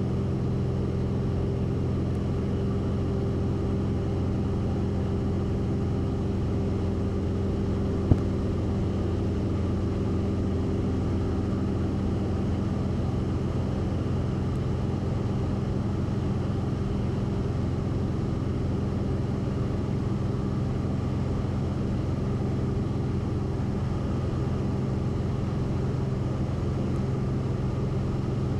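Cabin noise of a Cessna 172RG in flight: the four-cylinder Lycoming engine and propeller drone at a steady, unchanging pitch. A single sharp click about eight seconds in.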